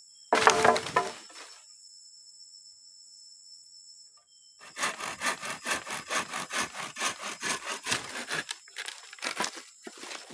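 A hand saw cutting wood in quick, even back-and-forth strokes for about four seconds, then a few scattered strokes. A loud, brief scraping burst comes about half a second in.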